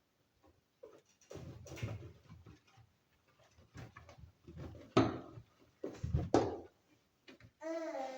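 Irregular knocks and clatters while a washing machine is being cleaned by hand, with two sharp, loud knocks about five and six seconds in. Near the end a young child's voice rises in a long, wavering cry.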